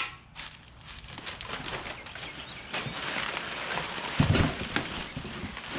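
Rustling and crinkling of packaging as parts are handled and pulled from a box, with small clicks throughout and a few heavier low thuds from about four seconds in.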